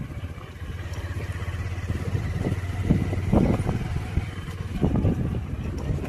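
Motor vehicle engine running steadily, with irregular gusts of noise over it.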